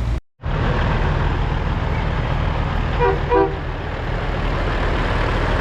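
Steady vehicle engine and road noise, with a vehicle horn giving two short toots about three seconds in.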